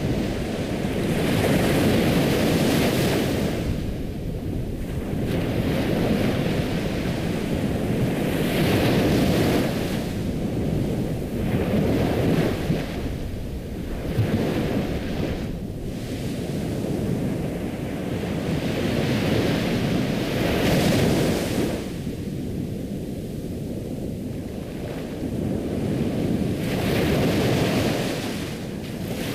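Ocean waves breaking and washing on a shore, rising and falling in slow swells every five to seven seconds.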